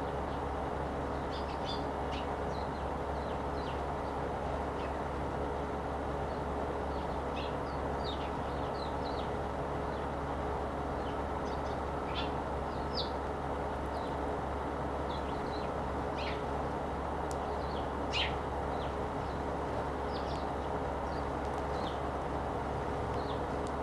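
Sparrows chirping: many short, separate chirps, some sliding downward, scattered throughout, over a steady background hum.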